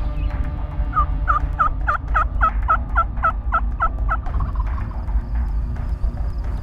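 Wild turkey yelping: a series of about a dozen evenly spaced yelps, about four a second, each note breaking from high to low. The yelps swell and then fade away over a steady low rumble.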